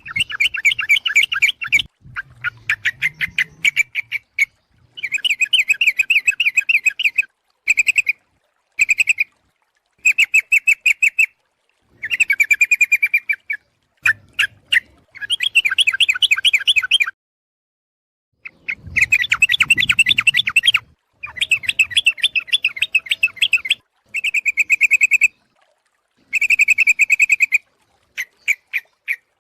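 Yellow-vented bulbul (trucuk) calls in a bird-catching lure recording, billed as a female calling the male: bursts of fast, bubbling chatter, each one to two seconds long, repeated with short gaps and a longer pause a little past the middle.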